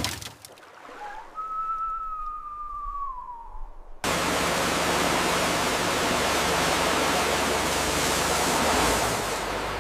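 A faint thin whistling tone that bends down in pitch, then, about four seconds in, a loud steady rushing hiss starts abruptly and eases off near the end.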